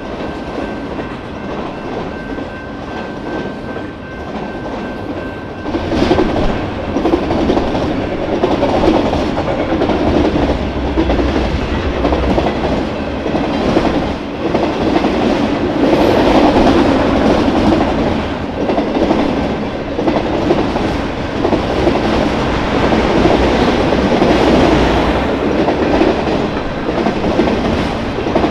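BNSF freight train rolling past on the mainline, its wheels clattering over the rails. A steady high whine sounds for the first six seconds; then the rolling noise steps up louder and stays loud with a deep rumble.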